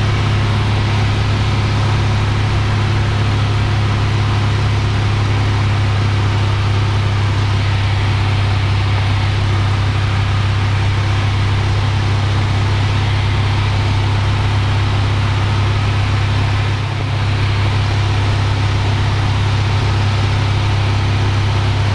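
Cessna 172F's six-cylinder Continental O-300 engine and propeller droning steadily in flight, with a brief dip in level about seventeen seconds in.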